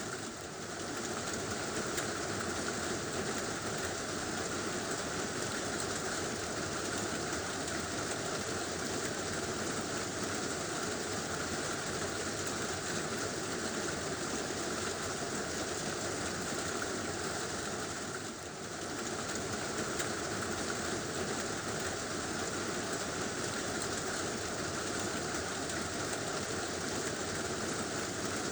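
Heavy rain falling steadily on a tin roof, a dense even hiss and patter, easing for a moment about eighteen seconds in.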